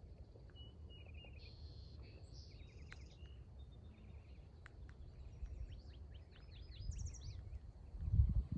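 Several small birds calling and singing at once: short trills, chips and quick runs of high notes. Beneath them a steady low rumble that swells and grows louder near the end.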